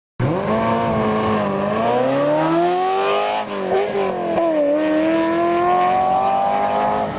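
A car engine revving and accelerating. Its pitch climbs over the first few seconds, falls back about three and a half seconds in, then climbs slowly again.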